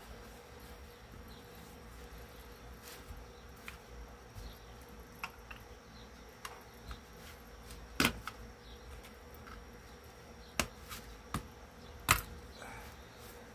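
A few sharp clicks and taps of hand tools working small nails loose from a wooden speaker cabinet, over a faint steady hum. The loudest clicks come about eight and twelve seconds in.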